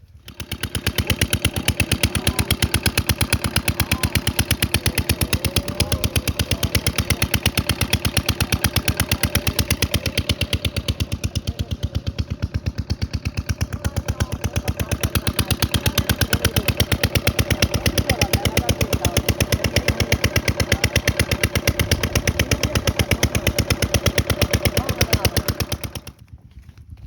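An engine running steadily, close by, with a rapid, even beat of firing strokes. It starts abruptly and cuts off about a second before the end.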